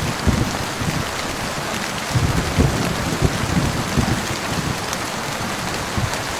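Heavy rain falling steadily in a dense hiss, with irregular low thuds and rumbles underneath.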